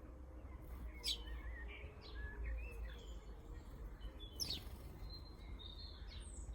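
Garden birds calling: scattered short high chirps, the two loudest sharp, falling notes about a second in and around four and a half seconds, over a steady low rumble.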